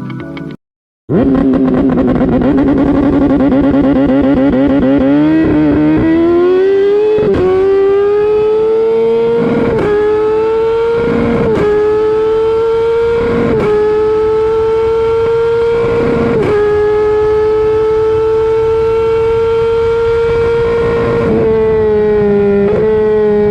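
Kawasaki ZX-10R's inline-four engine held at high revs for a launch, then pulling away hard, its pitch climbing and dropping sharply five or six times as it shifts up through the gears, before holding a steady high note near the end.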